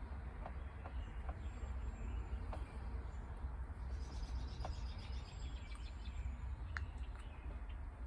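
Faint high bird chirps, with a quick run of them about four seconds in, and a few soft clicks over a steady low rumble.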